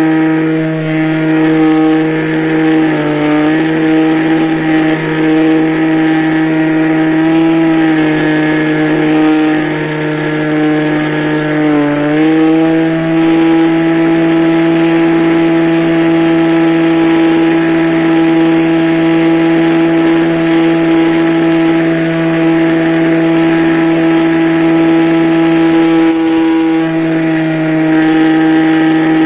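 Radio-controlled model airplane's engine running steadily at a high, even pitch. The pitch dips briefly twice, about 3 and 12 seconds in.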